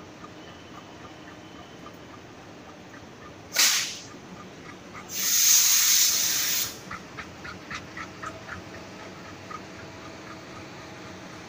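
Passenger train coaches rolling past with a steady rumble and light clicking. A short loud hiss comes about three and a half seconds in, and a longer, louder hiss from about five seconds to nearly seven, followed by a quick run of clicks.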